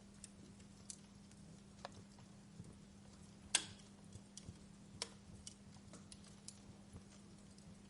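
Campfire crackling: irregular sharp pops and snaps of burning wood, the loudest about three and a half seconds in and another about five seconds in, over a faint steady low hum.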